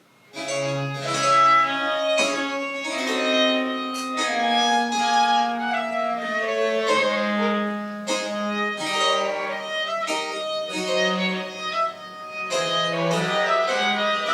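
Live French Baroque chamber music: a high melody line over a held low bass line, starting about half a second in after near silence.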